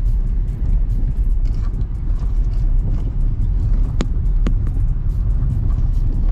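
Car driving over a rough dirt track: a steady low rumble of engine and tyres on the unpaved surface, with scattered small clicks and two sharp knocks about half a second apart around four seconds in.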